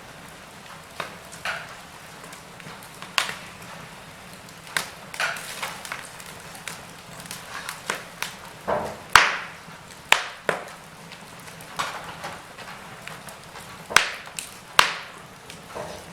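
Wood fire crackling: irregular snaps and pops over a low steady hiss, the sharpest pops about nine and fourteen seconds in.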